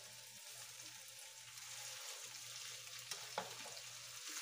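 Diced potatoes and ground beef sizzling softly in oil in a nonstick skillet while a spatula stirs and scrapes through them, with two short clicks of the spatula against the pan about three seconds in.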